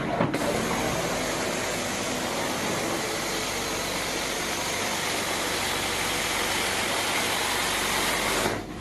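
Carpet cleaning machine working the carpet with a steady, airy hiss that dips briefly just after the start and again near the end.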